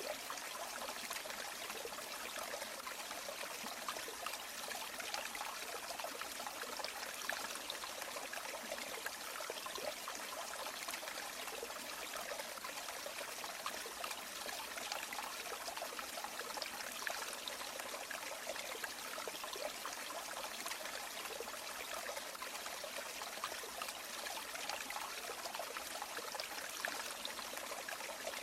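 River water flowing, a steady babbling and trickling with no deep rumble.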